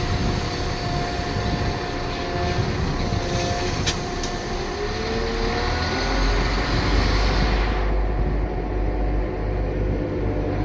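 A train running at the platform, its engine and drive whining steadily, with one whine rising in pitch midway. Two sharp clicks come about four seconds in, and a deep rumble builds from about six seconds in as the hiss dies away.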